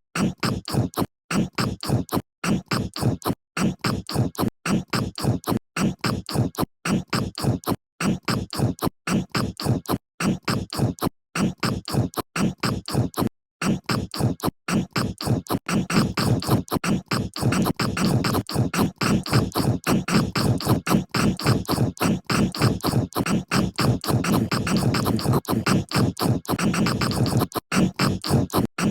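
Close-miked chewing and crunching of a cookie, a rapid string of short crunches with brief cut-outs, getting louder and denser about halfway through.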